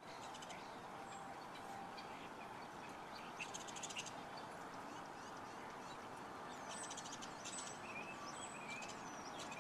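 Birds chirping, with a buzzy trill about a third of the way in and short whistled calls in the last few seconds, over a steady background hiss.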